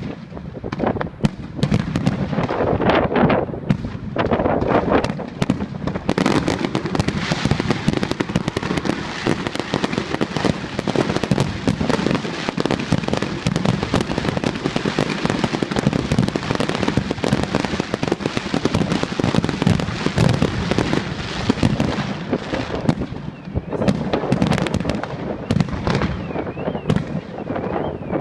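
Fireworks display: a rapid, continuous barrage of bangs and crackling that fills most of the stretch, thinning out near the end.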